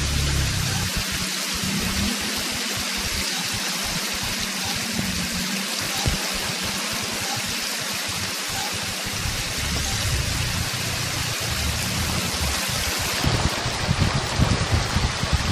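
Rain and running rainwater, a steady dense hiss. Low, uneven buffeting rises near the end.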